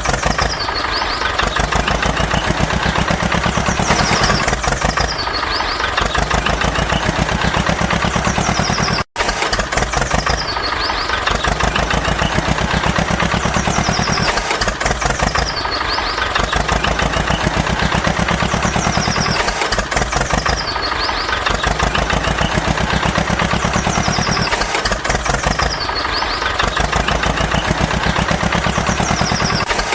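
Tractor engine running with a rapid steady chugging, the same few-second pattern repeating over and over. The sound cuts out for an instant about nine seconds in.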